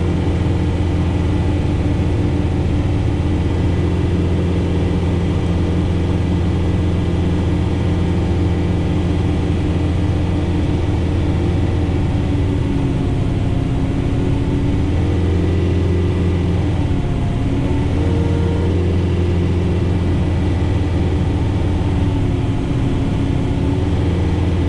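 John Deere 4066R tractor's diesel engine running steadily at working speed, driving a Frontier SB1174 rear-mounted snowblower through heavy wet snow. Around the middle its pitch sags and wavers a few times as the load rises, then it settles again.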